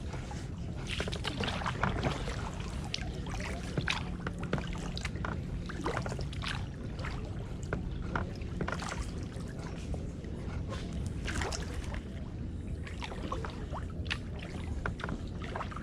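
Kayak paddle strokes through water: irregular small splashes, drips and knocks over a steady low rumble.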